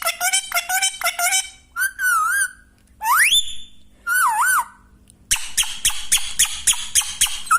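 Parrot calling: fast strings of short chirps, about four or five a second, at the start and again from about five seconds in, with warbling whistles and one quick rising whistle in between.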